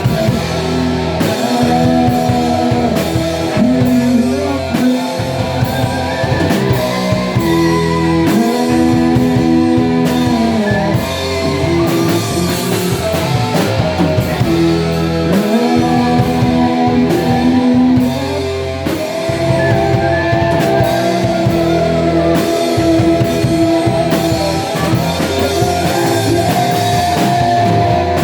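Rock band playing: electric guitar lines over held bass notes and a steady drum-kit beat.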